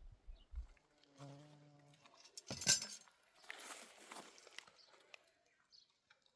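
A short insect buzz, like a fly passing close, then a sharp crack about two and a half seconds in and a spell of rustling.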